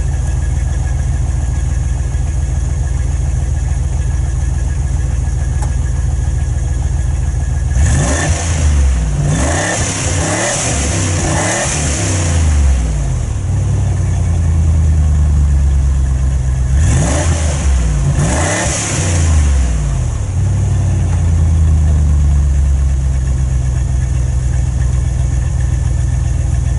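Range Rover P38 V8 with a modified exhaust (offset silencer in place of the stock system) idling, then blipped on the throttle: a run of quick revs about eight seconds in and a second pair around seventeen seconds, each time dropping back to a steady idle.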